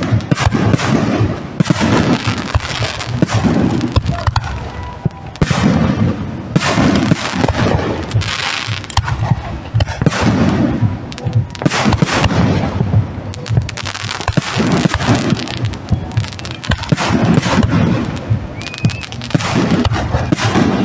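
Fireworks display: a continuous barrage of shells bursting one after another with loud booms, and crackling between them.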